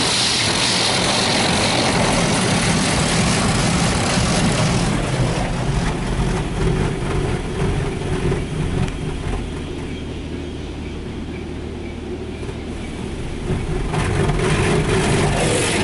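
Touchless car wash jets spraying rinse water over the car, heard from inside the cabin: a loud hiss and drumming of spray that eases off in the middle, leaving a low steady machine hum, then comes back loud near the end.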